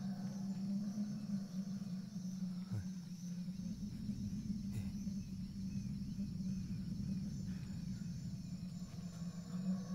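Forest ambience: a steady high buzz of insects with an even pulse, over a steady low hum, and a couple of faint knocks a few seconds in.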